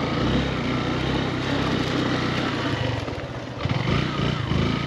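Motorcycle engine running as the bike is ridden, with a brief drop in level about three seconds in before it picks up again.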